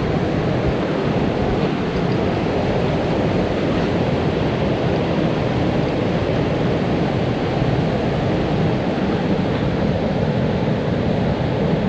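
Mountain stream rushing steadily, a loud, even noise of water running over rocks.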